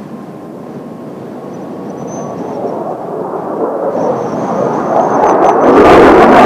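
Jet noise from a formation of Kawasaki T-4 jet trainers approaching, building steadily from a distant rumble to loud over the last couple of seconds.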